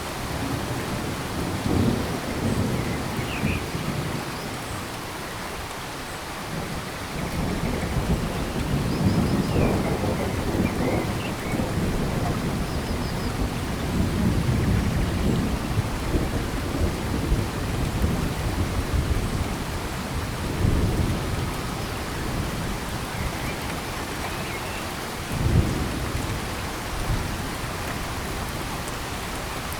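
Heavy rain falling steadily in a tropical forest, with deep rumbles that swell and fade several times. A few faint, short high chirps sit above the rain.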